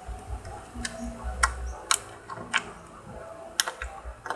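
Runny homemade glue slime being squeezed and worked by hand, giving irregular sharp wet clicks and pops, about eight of them.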